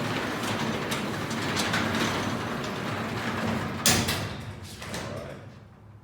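Sectional garage door being raised slowly by hand, rolling along its tracks with a steady grinding rumble from old rollers whose bearings are broken. There is a loud clunk about four seconds in, and the rolling noise fades near the end.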